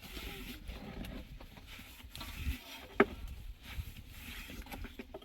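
Irregular small knocks and clatter of handling, with one sharp knock about three seconds in, over a low steady rumble.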